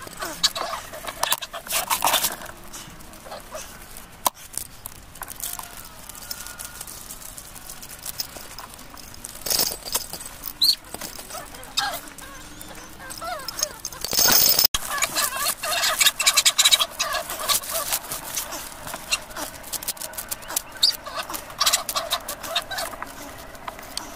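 Chickens clucking, over many irregular sharp knocks and clicks.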